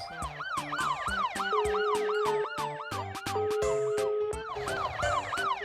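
Police-style siren wailing in fast rising-and-falling sweeps, about four a second, over children's background music with a steady beat.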